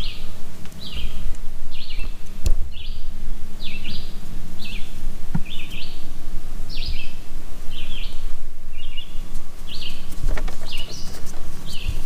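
A bird chirping over and over, short falling chirps about one and a half a second, over a steady low rumble. A few sharp clicks stand out.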